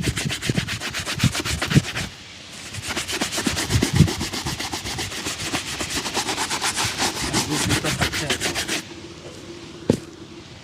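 Shoe brush rubbing over a shoe in fast back-and-forth strokes, several a second, buffing in the polish. The strokes pause briefly about two seconds in and stop shortly before a single knock near the end.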